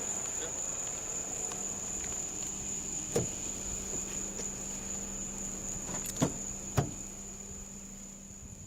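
Crickets trilling in one steady, unbroken high tone over a low hum, with a few sharp clicks about three and six seconds in. It all fades out near the end.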